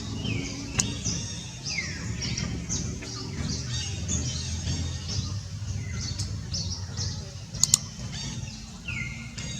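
High-pitched animal calls: many short chirps, each sliding down in pitch and some levelling off into a brief held note, over a low rumble, with a few sharp clicks.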